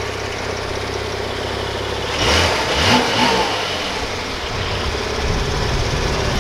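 Car engine running steadily with a low hum, heard from inside the vehicle, with a louder, rougher surge lasting about a second some two seconds in.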